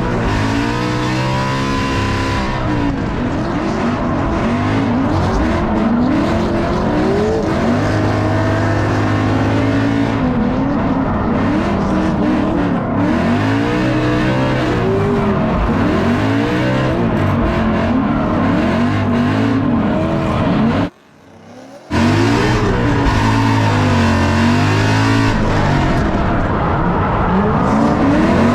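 Ford Mustang race car's engine on track, revving hard, its pitch climbing and falling again and again through shifts and corners. The sound drops out for about a second roughly two-thirds of the way through.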